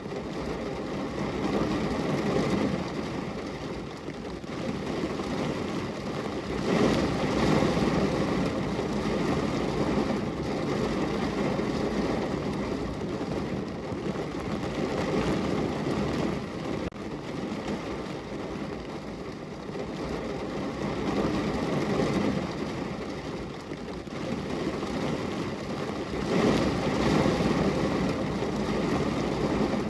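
Steady rain on a window, a dense even hiss. It swells louder about seven seconds in and again near the end.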